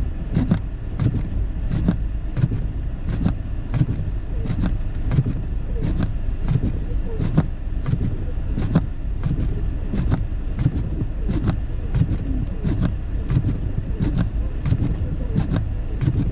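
Car driving through snow, heard from inside the cabin: a steady low road rumble with sharp clicks repeating about one and a half times a second.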